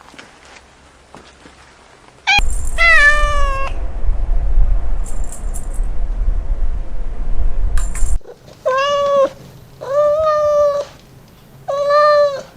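Kitten meowing: one meow falling in pitch about two seconds in, over a low rumble that lasts several seconds, then three shorter, even-pitched meows near the end.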